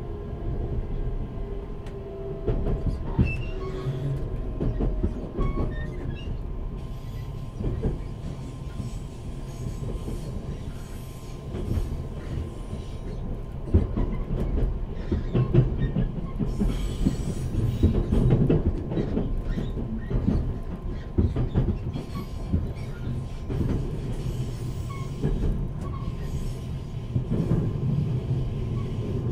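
Running sound heard inside a JR Central 383 series electric multiple unit motor car at speed: a steady wheel-and-rail rumble with frequent irregular clacks from the track. In the first six seconds or so, pitched tones from the Toshiba GTO inverter traction motors can be heard under the rumble.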